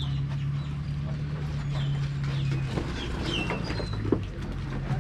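Birds calling in short chirping, gliding notes over a steady low hum; the hum stops about three seconds in.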